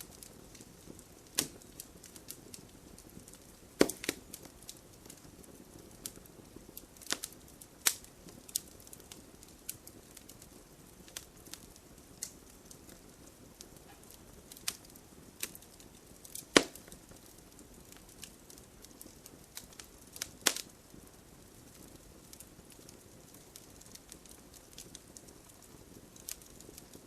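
Wood fire crackling in a fireplace: a low steady hiss with irregular sharp pops and snaps from the burning logs, the loudest about four seconds in and again about sixteen seconds in.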